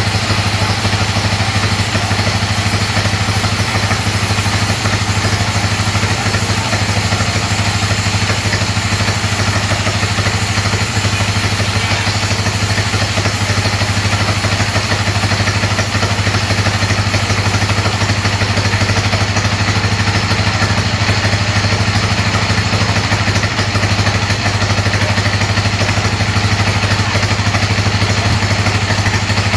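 Sawmill bandsaw machinery running steadily, a loud constant engine-like hum.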